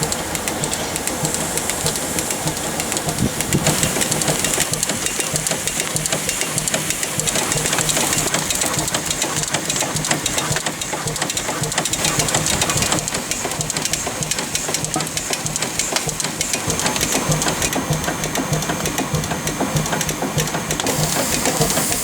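Ruston Proctor 3 ton SD steam tractor at work: steam hissing over a steady, rapid mechanical clatter.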